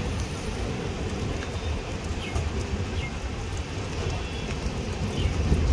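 Steady rumble of a moving express passenger train, heard from on board the coach as it runs along the rails.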